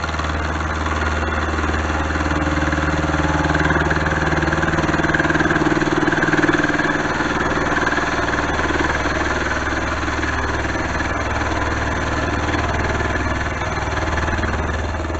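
Milling machine running at about 1100 RPM, a 10 mm HSS cobalt end mill climb-milling a steel block under hand feed: a steady machine hum with cutting noise over it, loudest in the middle.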